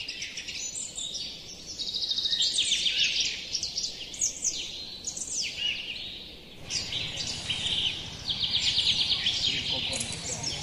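Several birds singing in the trees: rapid high trills and repeated chirps with quick downward-sweeping notes, overlapping throughout.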